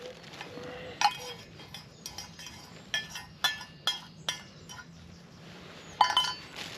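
Sharp metallic clinks from camp cookware: an egg being tapped and cracked against the rim of a pot or cup. There are about half a dozen clinks, each with a brief ring.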